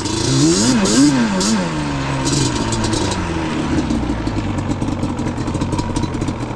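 Yamaha Banshee's two-stroke twin engine blipped up and down a few times, then settling to a steady, pulsing idle about halfway through.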